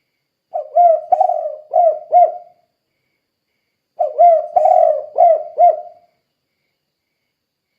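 A spotted dove (tekukur) cooing in its 'kuk 2' song pattern. It gives two phrases of about four low coos each: one starts about half a second in, the other about four seconds in, with a pause between.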